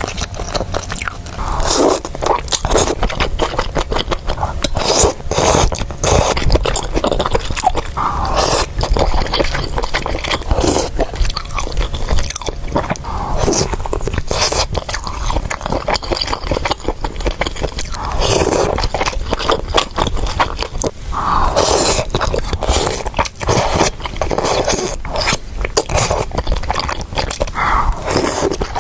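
A person biting and chewing crunchy food, with many sharp crunches one after another.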